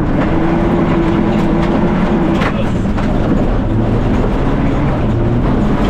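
Fiat Egea 1.4 T-Jet rally car's turbocharged four-cylinder engine running hard at steady revs, heard from inside the cabin under heavy road and tyre noise. There is a sharp knock about two and a half seconds in.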